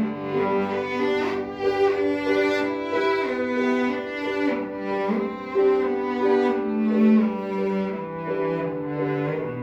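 Cello playing a melody of held notes, each changing about every half second to a second, with piano accompaniment.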